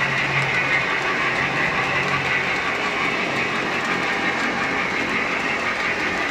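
HO scale model train running steadily along the layout's track.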